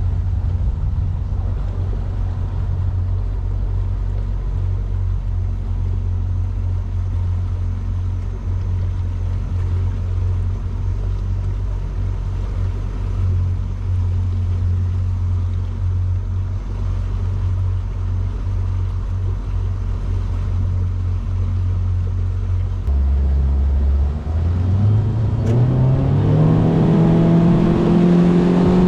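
Motorboat engine running at a steady cruising speed, then throttled up about three quarters of the way through, its pitch rising for several seconds before holding higher.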